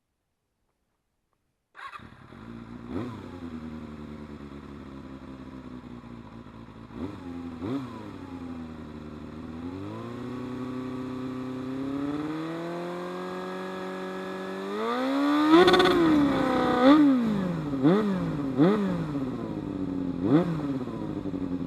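Suzuki Bandit 250's inline-four engine through a LeoVince GP Corsa aftermarket exhaust, idling and being revved. After a few short blips, the revs climb slowly and hold. Near the end come a run of sharp, quick revs, the loudest of them about two thirds of the way in.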